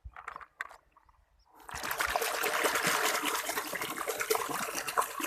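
Water running and splashing onto a toy truck as it is washed. The water starts about a second and a half in, after a few short handling sounds.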